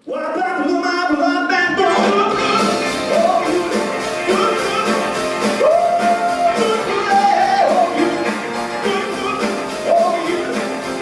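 A live rock band plays, with drums and a singer. The music starts abruptly at a cut, and the sung melody comes in about two seconds later.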